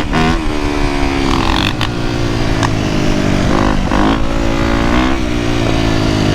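Dirt bike engines running and revving, the pitch rising and falling as the throttle opens and closes, with dips and climbs in pitch about four and five seconds in.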